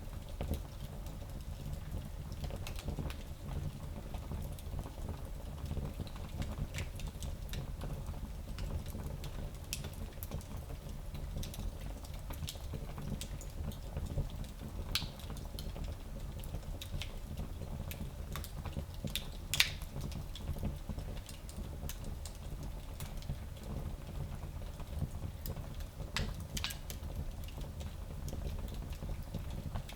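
Wood fire in a small fireplace burning with a steady low rumble and scattered crackles and pops, one sharper pop standing out about twenty seconds in.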